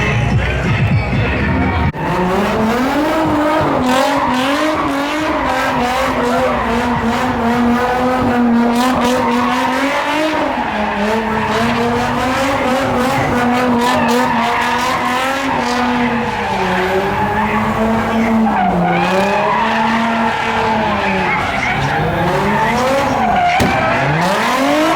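A car's engine revving hard and held high, its pitch wavering and dipping, with tires squealing: a car doing donuts or drifting. The sound changes abruptly about two seconds in.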